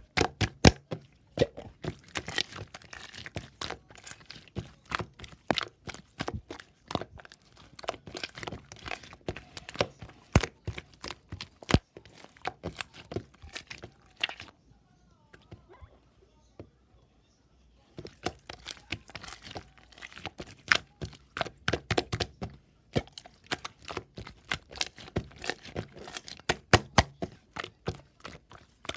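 Dense, irregular crackling and crinkling, like something being crumpled or torn by hand, stopping for a few seconds in the middle and then resuming.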